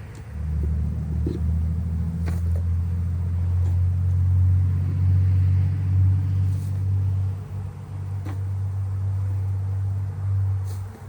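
A low, steady rumble like a motor running, which starts just after the opening and cuts off near the end, with a few faint knocks over it.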